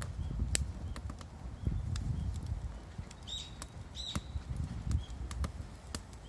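Wood bonfire crackling: irregular sharp pops and snaps over a low rumble of the burning fire. Two short high chirps come about three and four seconds in.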